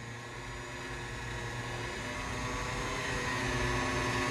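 A vehicle engine running steadily with a humming drone, slowly getting louder.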